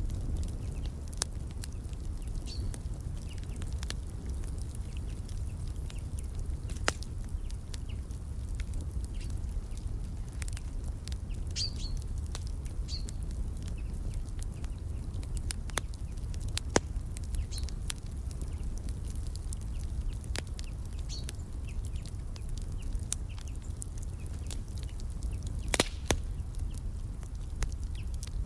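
Wood fire crackling, with scattered sharp pops over a low steady rumble and one louder pop near the end. Birds chirp briefly and faintly now and then.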